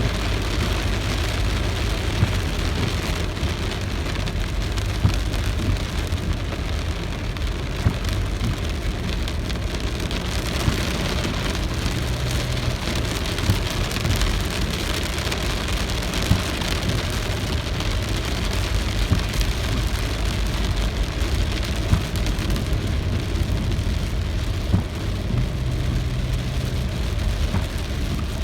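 Steady rain falling, an even hiss with a low rumble under it, and now and then a sharper, louder drop.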